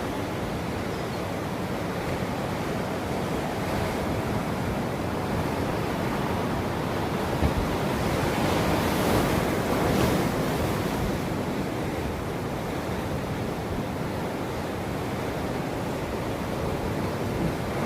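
Ocean surf: waves washing continuously onto a shore, one wave swelling and breaking about halfway through, with some wind noise on the microphone.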